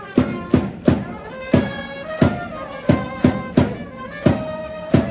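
Japanese baseball cheering-section band playing a player's cheer song: brass melody in held notes over a drum struck in a steady, driving pattern, about two to three hits a second.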